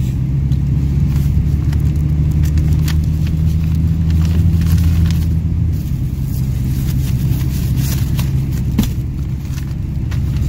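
Car running on the road, heard from inside the cabin: a steady low engine and road hum, whose deepest tone drops away about six seconds in, with scattered faint clicks.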